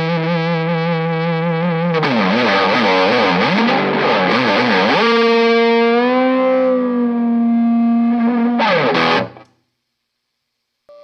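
Electric guitar, a 1997 Epiphone Les Paul Custom, played through heavy distortion: held notes with wide vibrato, a stretch of fast wavering bends, then a long bent note that stops sharply about nine seconds in, leaving silence.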